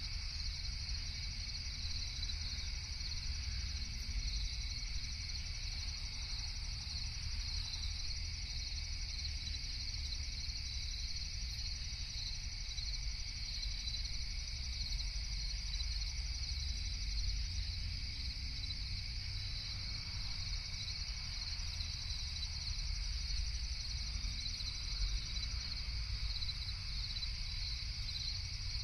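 Steady chorus of crickets at night, a constant high-pitched chirring that does not change, over a low background rumble.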